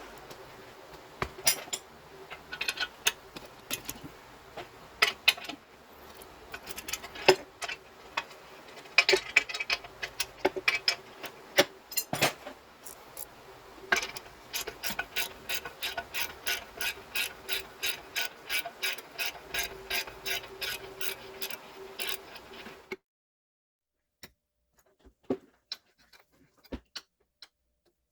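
Hand ratchet wrench clicking, working fasteners on the exhaust. Scattered clicks and knocks come first, then a steady run of about three clicks a second. The sound stops about 23 seconds in, leaving only a few faint clicks.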